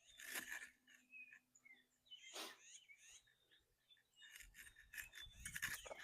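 Faint birds chirping, with a few scattered clicks and rustles; a low rumble rises from about four seconds in.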